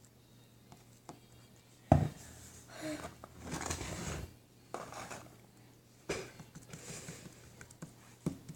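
Handling noise: a sharp knock about two seconds in, followed by several short bursts of rustling, clattering handling sound.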